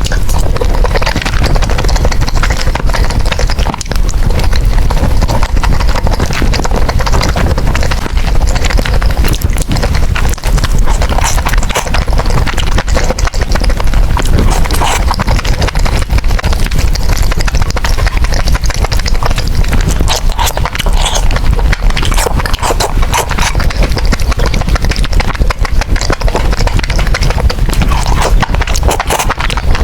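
Close-miked eating of noodles: a dense, continuous run of chewing and wet mouth clicks and smacks.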